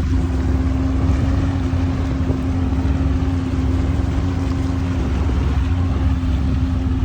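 Small boat's outboard motor running at a steady speed under way, a constant even hum, with wind rushing over the microphone.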